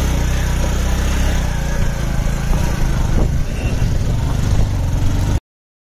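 Motorcycle engine running steadily in a low gear, climbing a rough, rocky dirt track, with wind noise over it. It cuts off suddenly near the end.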